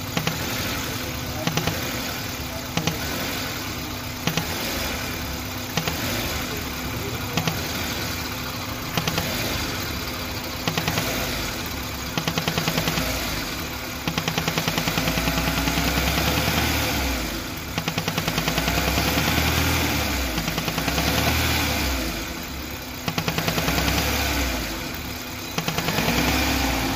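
Old-model Maruti Suzuki Wagon R petrol engine revved by hand again and again, rising and falling, with a rapid ticking noise over the engine during the higher revs. The mechanic traces the noise to a vacuum hose left off its valve with its clip missing.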